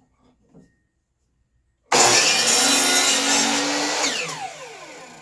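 Electric power saw switched on about two seconds in and trimming the end of a wooden board. It then shuts off and winds down with a falling whine.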